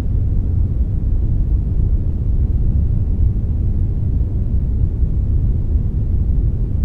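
Steady synthetic brown noise blended with a little white noise: a deep, even rumbling hiss, heaviest in the bass and thinning toward the treble, with no changes.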